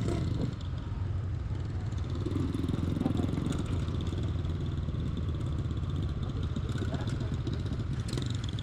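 Motorcycle engine running steadily, its sound concentrated low with fast, even pulsing.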